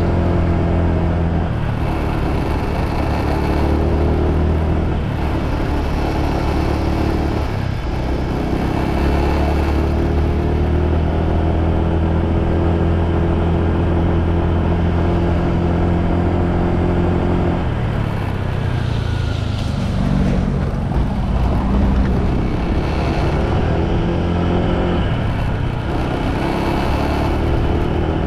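Motorbike engine running while riding, with a steady engine note and road noise. About two-thirds of the way through the engine note drops as the bike slows, then rises again as it speeds back up.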